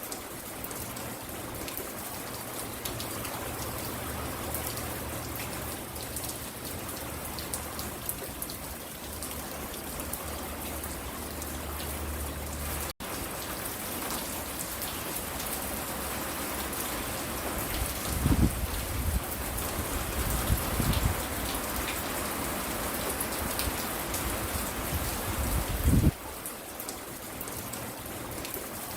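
Steady rain falling and pattering on surfaces. There is a momentary dropout about halfway through, and a few short, low rumbles in the second half, the loudest near the end.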